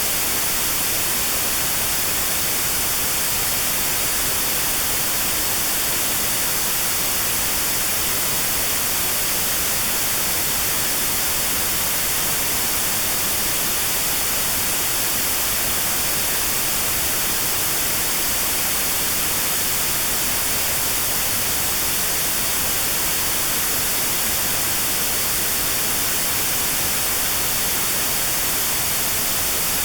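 Steady white noise with a narrow band around 4 kHz cut out: notched sound therapy for tinnitus at that pitch. It is an even hiss, loudest in the highs.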